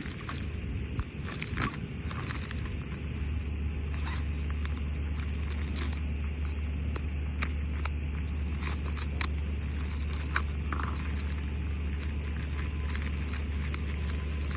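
An insect trilling in one steady high tone, in three long spells with pauses between them, over a steady low rumble. Scattered small clicks and cracks sound throughout.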